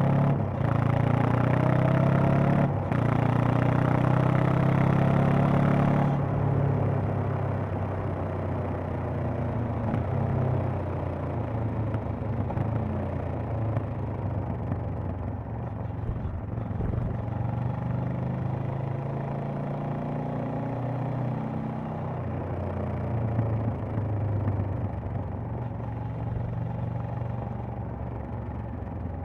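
Honda CB500X parallel-twin engine and exhaust pulling under throttle with rising pitch, with a brief dip about three seconds in. About six seconds in the throttle closes and the engine drops to a quieter, steady run.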